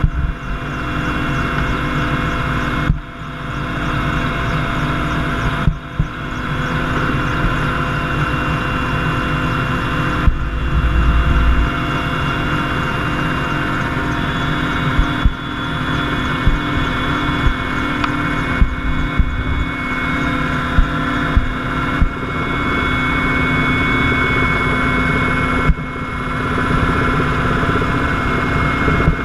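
Engine running steadily and loudly, with a low rumble and a few steady whining tones above it, broken by several brief cuts.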